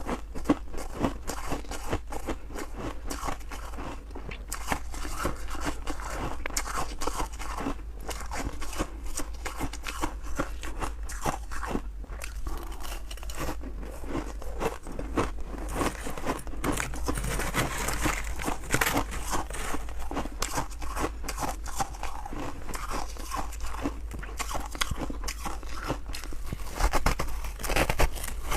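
Close-up biting and chewing of freezer frost, a dense run of irregular crunches and crackles with no pause.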